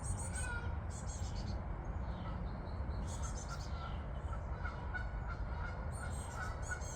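Birds calling in short, high, chattering phrases every second or two over a steady low rumble.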